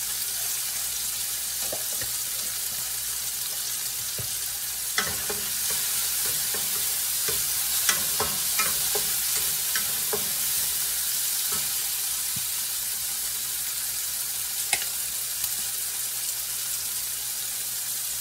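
Onions, tomatoes and minced garlic sizzling in oil in a stone-coated wok, a steady hiss. A wooden spatula stirs the mix, clacking against the pan now and then from about five seconds in until near the end.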